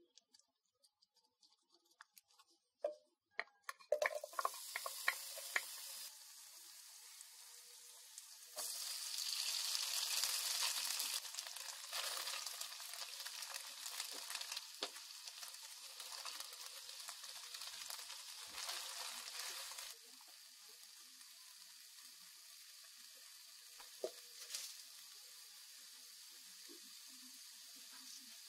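Foil wrapper of a broth cube crinkling with a few sharp clicks, then hot oil sizzling in a frying pan as carrots and vermicelli noodles are sautéed and stirred. The sizzle gets louder about nine seconds in and drops back to a softer hiss about twenty seconds in.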